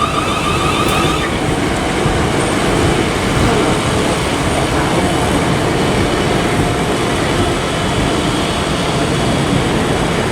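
South Western Railway Class 450 Desiro electric multiple units running past along the platform, a steady loud rumble of wheels on rail. A pitched electric whine fades out about a second in.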